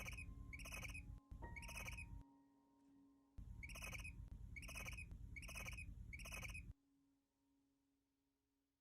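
A bird-like animal call repeated at an even pace, about two calls a second, in two runs with a short break between them. The calls stop about two-thirds of the way through, leaving near silence.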